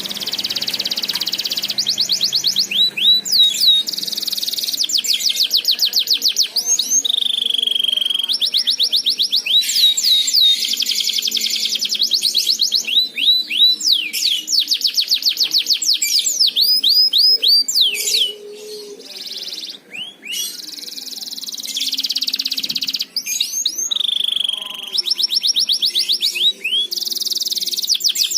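Domestic canary singing a long, continuous song of rapid trills and quick rising and falling whistled slurs. The song drops to a quieter stretch about two-thirds of the way through, then resumes.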